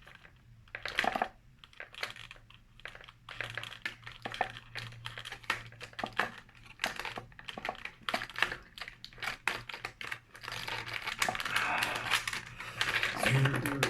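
Action-figure packaging being opened and handled: irregular clicks, taps and crinkles of cardboard and plastic, growing busier near the end.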